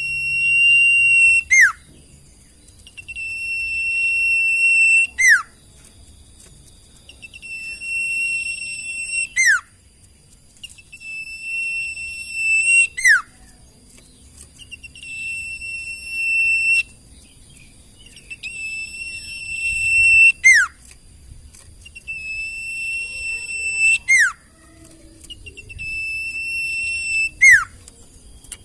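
Sirtu bird song played as a training recording: a level high whistle held for about a second, then a quick whistle sweeping steeply down, repeated eight times at about three-and-a-half-second intervals.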